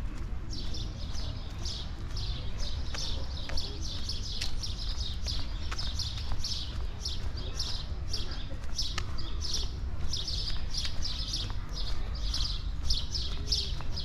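A bird chirping over and over, short high calls about twice a second, over walking footsteps and a steady low rumble of wind on the microphone.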